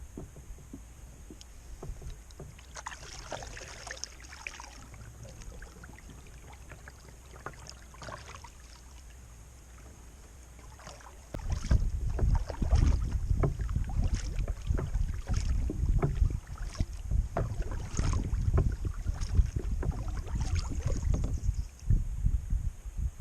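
Kayak paddle dipping and splashing in the water, stroke after stroke, with drips running off the blade. About halfway in, a low wind rumble on the microphone comes up and the whole sound gets louder.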